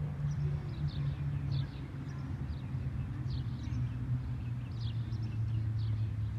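A low engine hum that slowly drops in pitch, with a small bird chirping repeatedly over it, a little under two chirps a second.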